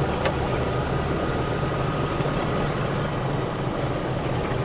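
Semi-truck running down the road, a steady low engine and road hum heard from inside the cab, with one short click about a quarter second in.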